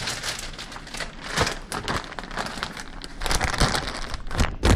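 Plastic cheese packaging crinkling and rustling as it is handled, busier from about three seconds in, with a few sharper crackles near the end.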